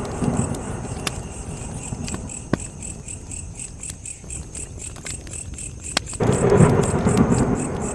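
Campfire crackling with scattered sharp pops, over a steady rhythmic chirping of crickets. A low rumbling surge swells up about six seconds in.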